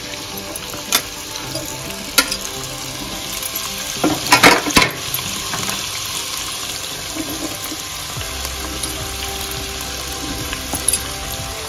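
Chopped vegetables sizzling as they fry in hot ghee in a pot, with clatters as more pieces are tipped in from a plate. The loudest clatters come about four to five seconds in.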